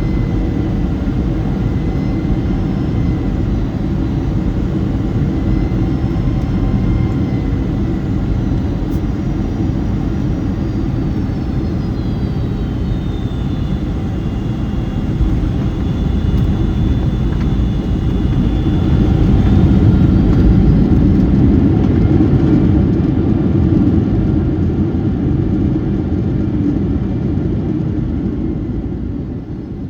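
Boeing 757-200 cabin noise during landing: a loud, steady rumble of the jet engines and rushing air, with a thin engine whine that slides down in pitch and later climbs again. The noise swells about two-thirds of the way through and drops away at the very end.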